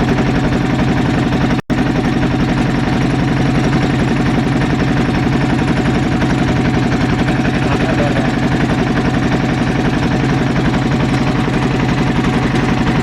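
Motorboat engine running steadily with a low, even drone; the sound drops out for an instant about two seconds in.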